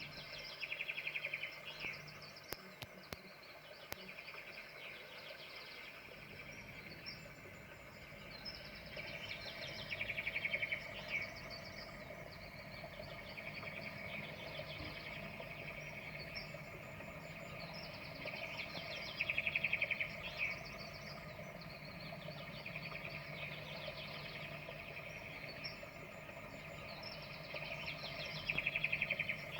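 Songbirds singing: one bird repeats a short, fast trilled phrase about every nine seconds, with fainter chirps from others between, over a steady low hum.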